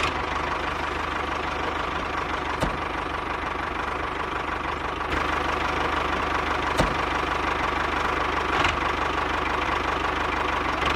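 Small motor running steadily, with a fast, even knocking and a constant whine; a few sharp clicks stand out.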